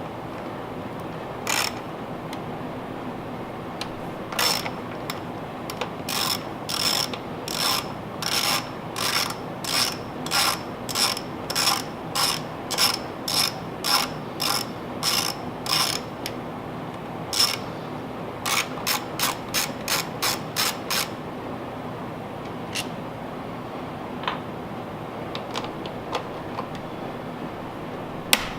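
Socket ratchet clicking in steady runs of about two clicks a second, with a pause partway, as bolts are backed out.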